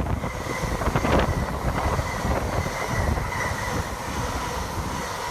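A train running past on the line: a steady low rumble with a thin, steady high whine over it.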